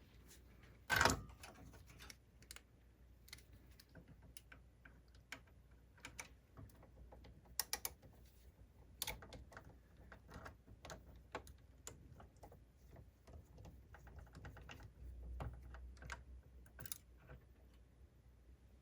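Scattered small clicks and taps of a screwdriver and small plastic and metal parts being handled while a laserdisc player's sled motor holder is unscrewed, with one louder knock about a second in and a quick run of ticks later on.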